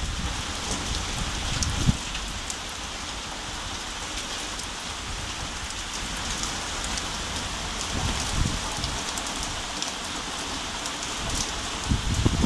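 Heavy thunderstorm downpour, a steady dense hiss of rain. Short low thumps break through about two seconds in, around eight seconds and near the end.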